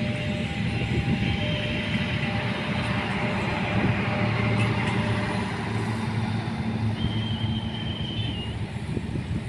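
A train running past with a steady low rumble, and a brief high squeal near the end.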